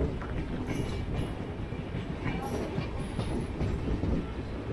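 Indian Railways express train's coaches passing at running speed, with the steady noise of their wheels running on the rails.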